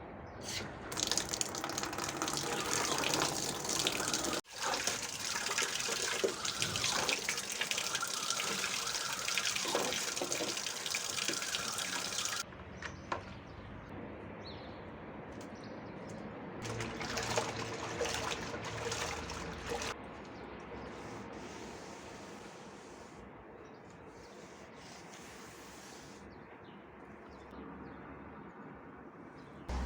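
Water running and splashing during cleaning, in long stretches of hiss with sudden cuts, first for about eleven seconds and again for a few seconds near the end, with quieter stretches between.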